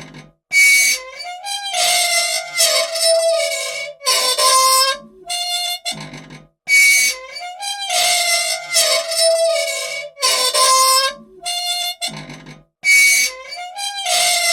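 Squeaky old machine in need of oil, giving loud, pitched squeals and creaks. The same sequence repeats about every six seconds.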